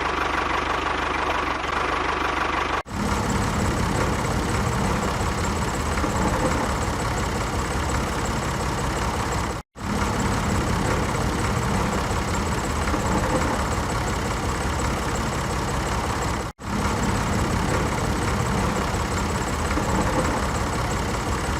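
An engine running steadily with a rapid knocking beat, broken by three sudden short cutouts about 3, 10 and 17 seconds in.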